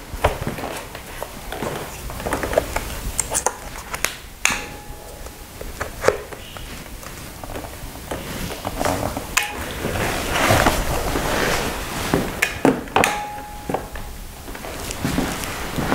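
Clicks, knocks and rattles of handling as the jump starter's clamps are fitted to the motorcycle's battery terminal and frame, with two short tones, one about four seconds in and one near the end.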